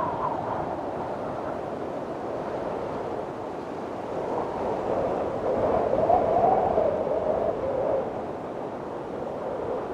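Strong wind blowing steadily in a storm, with a gust swelling about halfway through into a wavering, moaning whistle that rises and falls before easing off.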